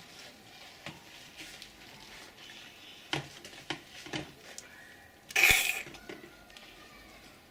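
A spoon being washed in soapy water in a toy dishwasher's basin: soft light knocks and water sounds, with one louder, half-second swish about five and a half seconds in.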